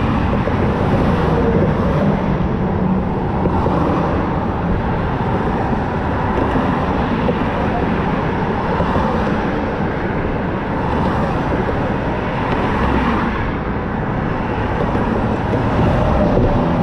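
Motorcycle riding on the road: a steady mix of engine, tyre and wind noise on the microphone.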